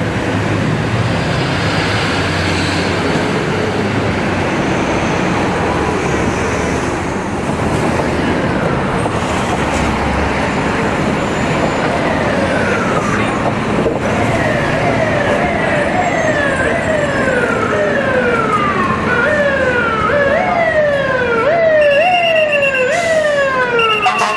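Traffic and heavy engine noise, then about halfway through a fire truck's electronic siren comes in, its pitch sweeping over and over about once a second and getting stronger toward the end.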